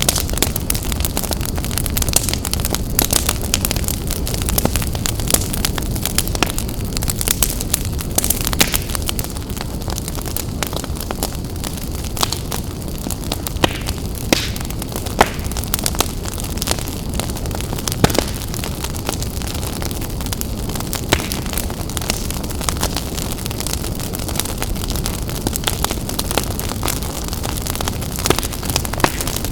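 Wood fire burning in a fireplace: a steady low rush of flames with frequent, irregular sharp crackles and pops, a few of them louder than the rest.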